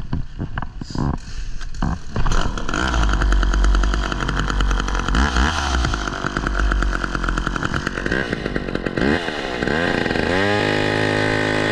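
McCulloch chainsaw cutting wood: a few knocks, then the saw comes up to full revs about two seconds in and runs under load, its pitch rising and falling as the bar works through the cut. Near the end it runs steadily at high speed, then winds down as the throttle is let off.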